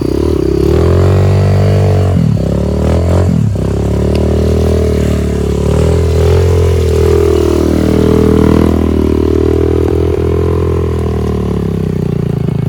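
Trail motorcycle engine revving hard, its pitch rising and falling as the rider works the throttle, dropping briefly about two to three seconds in, as the bike struggles for grip on a slippery track.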